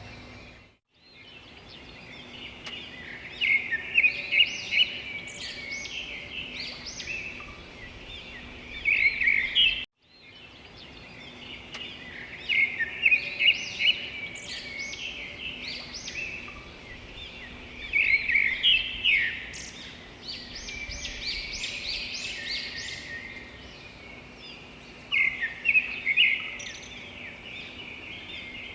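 Wild songbirds chirping and singing: rapid runs of short, high notes that come in loud clusters every few seconds over a steady outdoor background. The sound drops out briefly twice, near the start and about ten seconds in.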